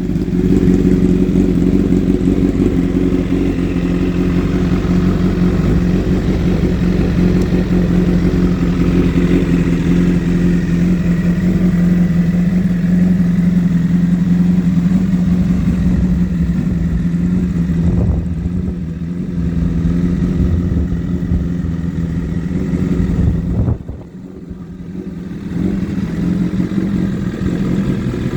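Honda CBR1000RR SC59 inline-four running through an aftermarket Dominator exhaust, holding a steady engine speed with an even note. About 24 seconds in the sound drops away briefly, then comes back at the same pitch.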